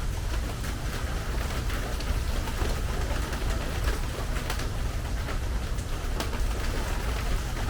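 Rain falling steadily on a metal porch roof, with many separate drops ticking sharply on the metal.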